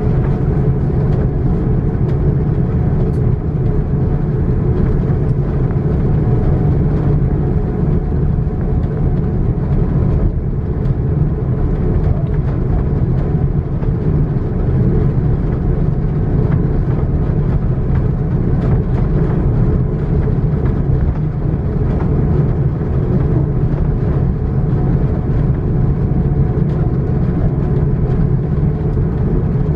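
Cabin noise inside an Airbus A330-900 on the ground before takeoff: the Rolls-Royce Trent 7000 engines and the rolling airframe give a loud, steady low rumble, with faint rattles and ticks from the cabin.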